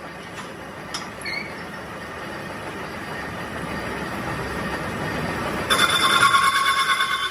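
Metalworking machinery running with a noisy rumble that slowly grows louder, with a few light clicks early. About six seconds in, a louder pulsing metallic squeal starts.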